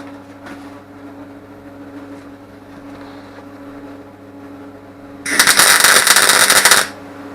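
Welding arc crackling in one short burst of about a second and a half, a tack weld, over a steady electrical hum from the welding set.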